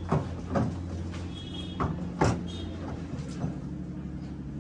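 Five irregular sharp knocks over a steady low hum.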